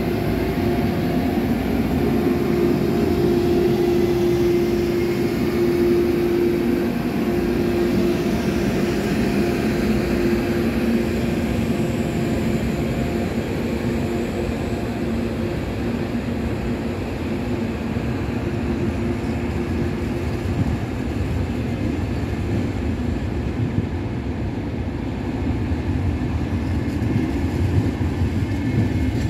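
VR Sr3 electric locomotive passing with a steady electric hum, followed by its double-deck Intercity coaches rolling by with an even rumble. The locomotive's hum fades after about twelve seconds, leaving the coaches' rumble.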